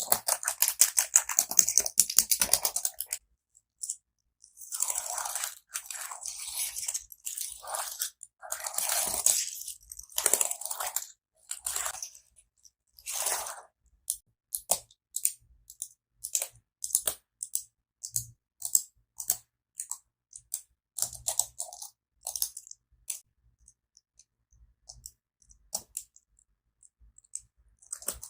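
Computer keyboard keys clicked and tapped close to the microphone. A fast run of clatter for about the first three seconds gives way to short rattling bursts, then to slower single clicks about two a second.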